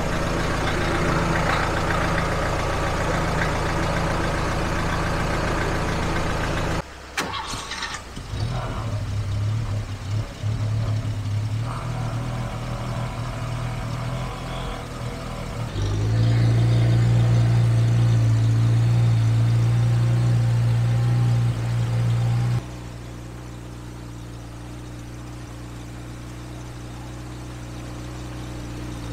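Car engines running at idle, changing abruptly several times: a steady idle, a rougher stretch, a louder engine for several seconds, then a quieter idle near the end.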